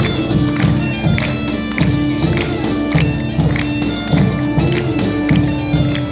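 Bagpipes playing a tune over a steady drone, with drums beating along in a regular rhythm.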